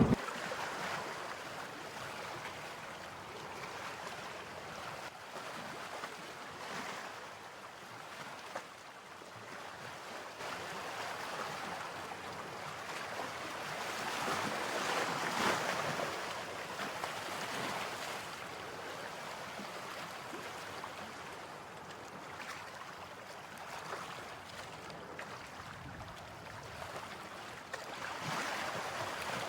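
Steady rushing noise of wind and rain, swelling for a few seconds about halfway through.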